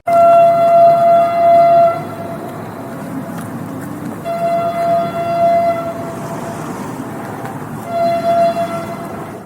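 Train horn sounding two long blasts and then a short one, over the steady rumble of the train running on the rails.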